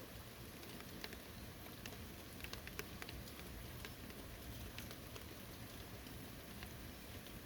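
Light rain falling steadily, soft hiss with scattered individual drops ticking on surfaces close by.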